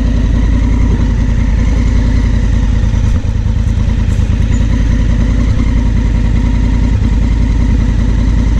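Honda Africa Twin CRF1000L's parallel-twin engine running steadily while the motorcycle is ridden.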